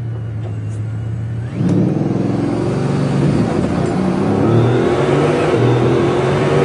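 Car engine idling steadily, then revving hard from about a second and a half in, its pitch rising and falling again and again.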